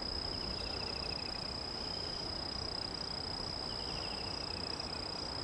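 Insects singing in the countryside: a steady high-pitched drone, with a short falling trill twice, about half a second in and again near four seconds.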